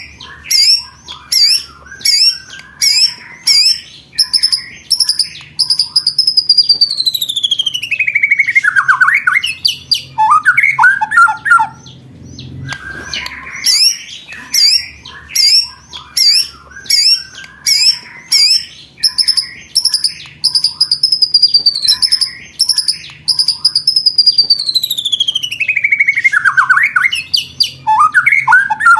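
Songbird's rapid 'roll tembakan' song: sharp high notes about two a second, then one long whistle falling steadily in pitch and a short burst of chattering notes. The phrase runs twice, the second time starting about halfway through.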